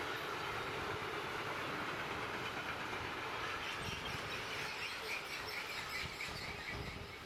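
A train's wheels running on the rails as it passes, a steady rolling noise that begins to fade in the last second as it moves away.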